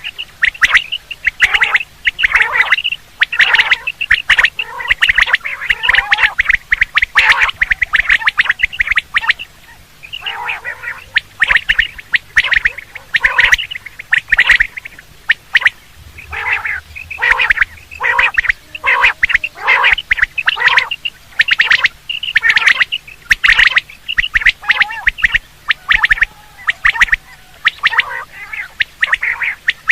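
Quail calling over and over in quick, loud runs of short calls, broken by brief pauses. It is a quail call of the kind played to lure quail for hunting.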